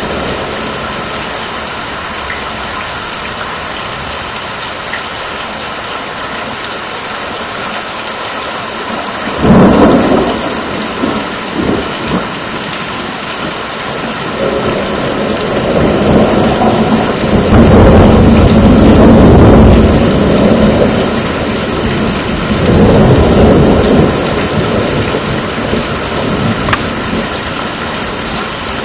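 Thunderstorm: steady rain with a sharp thunderclap about a third of the way in, then a long rolling rumble of thunder that builds, peaks twice and fades near the end.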